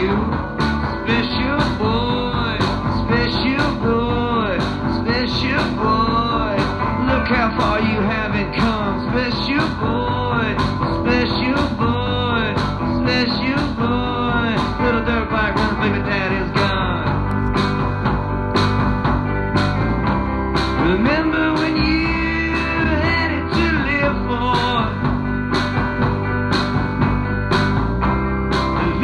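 Instrumental break of a blues-tinged rock-and-roll song: a lead guitar plays bending notes over a steady drum beat and bass.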